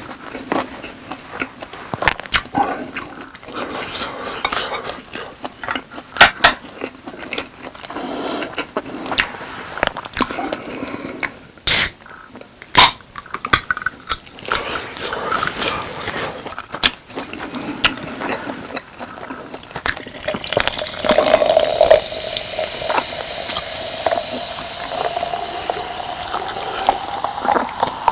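Clicks and clinks of utensils and eating, with two sharp knocks about halfway through. In the last third a drink is poured into a cup, its pitch rising steadily as the cup fills.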